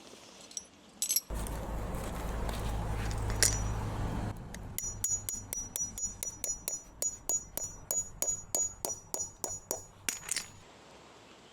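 A few seconds of rushing noise, then a quick, even run of metallic clinks, about three to four a second, each with a short high ring.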